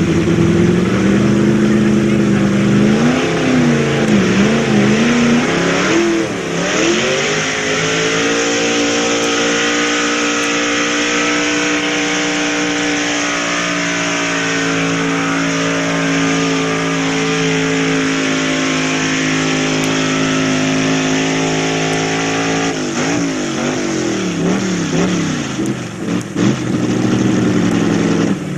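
Single-carburetor pulling truck's engine running hard: it revs up and down for the first several seconds, then holds a steady high pitch for about fifteen seconds, and revs up and down again near the end.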